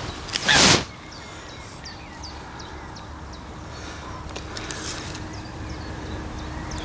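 Small birds chirping in quick short notes, several a second, with a brief loud rush of noise about half a second in. A faint steady hum comes in about four seconds in.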